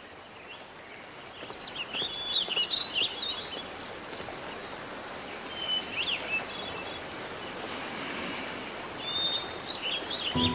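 Small birds chirping in quick twittering phrases three times, over a steady outdoor hiss.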